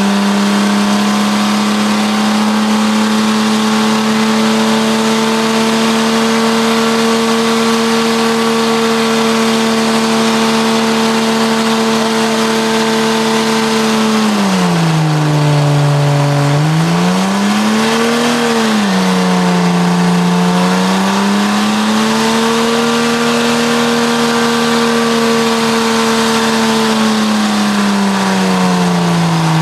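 Jeep Cherokee's engine held at steady high revs during a burnout, its tyres spinning against the pavement with a constant hiss. About halfway through the revs drop, pick up briefly, dip again, then climb back before falling off near the end.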